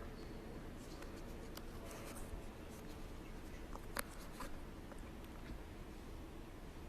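Quiet room tone in a large church, with faint rustling and handling noises and a few small sharp clicks; the sharpest click comes about four seconds in.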